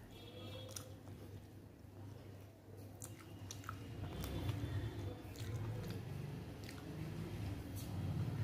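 Close-up chewing of a mouthful of rice and cauliflower-potato curry, with scattered wet mouth clicks. There are soft squishing sounds as fingers mix rice and curry on the plate, over a low steady hum.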